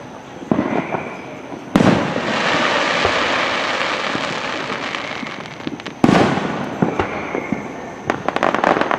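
Fireworks show: a bang about half a second in, a loud bang near two seconds followed by several seconds of crackling hiss, another loud bang about six seconds in, and a quick run of crackles near the end.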